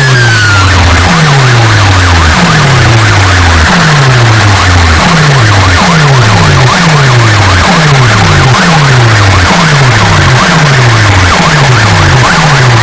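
Large DJ sound-box speaker stacks playing an electronic track at full volume, heavily distorted: a deep bass sweep falls in pitch again and again, about once a second at first and then faster, close together from about halfway on, with a siren-like falling high tone near the start.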